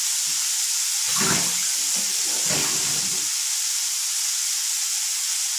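Sprouted green gram sundal with onion frying in a steel kadai on a gas stove: a steady sizzling hiss.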